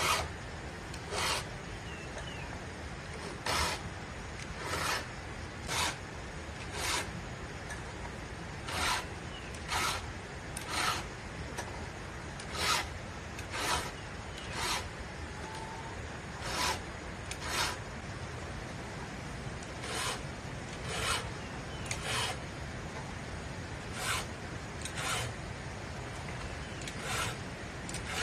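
Rasping strokes of a hand saw cutting through firewood, in short runs of two or three strokes about a second apart with brief pauses between.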